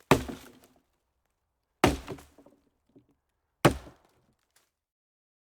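Three sharp knocks, each dying away quickly, about two seconds apart.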